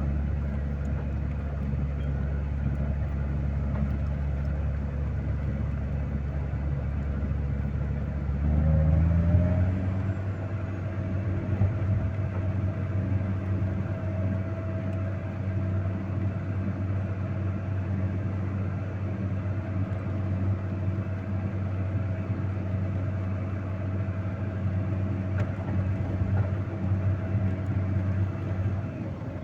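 Vehicle engine running steadily at low revs; about eight seconds in the revs rise and then hold higher, with a thin steady whine alongside.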